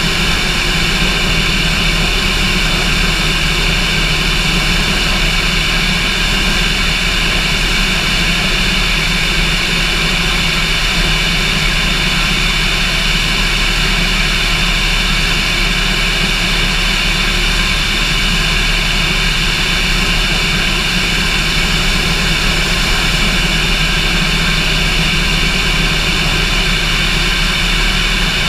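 Cessna light aircraft's piston engine and propeller running in flight: a steady drone that holds the same pitch and loudness throughout.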